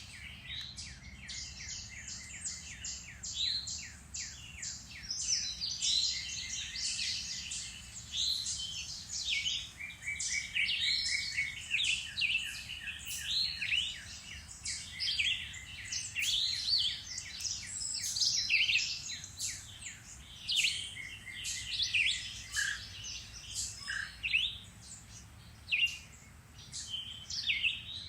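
A chorus of several songbirds singing and calling at once: overlapping chirps, fast trills and short whistled notes, with no pause.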